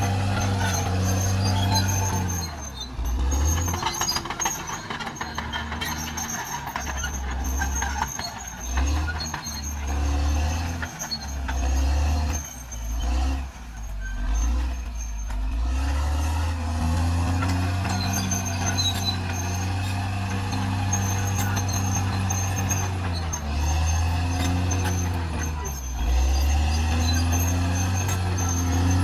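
Caterpillar D6R XL bulldozer's diesel engine working. It runs steadily, then its note sags and recovers repeatedly for a long stretch in the middle and once more near the end, as the machine comes under load pushing.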